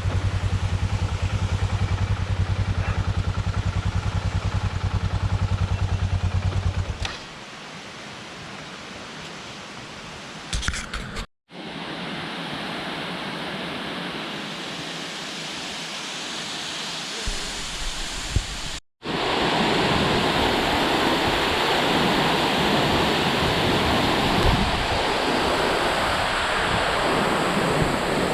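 A single-cylinder motorcycle engine idles steadily and is switched off about seven seconds in. After that comes a steady rushing of a waterfall, which is soft at first and then much louder and closer for the last third.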